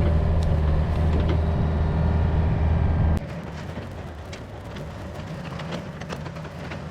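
Diesel engine of an earthmoving machine running steadily while scraping topsoil. About three seconds in it drops off suddenly to a much quieter run, with scattered clanks and knocks from the machine working.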